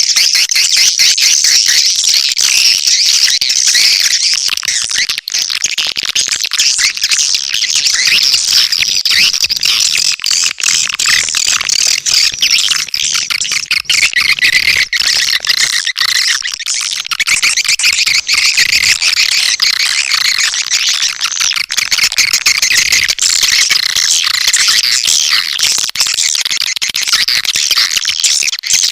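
Swiftlet lure call: a dense, unbroken twittering of many swiftlets, made up of rapid high chirps, the sound played to attract swiftlets to a nesting house.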